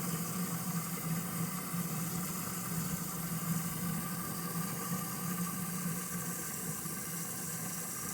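A small motor running with a steady low hum over an even hiss.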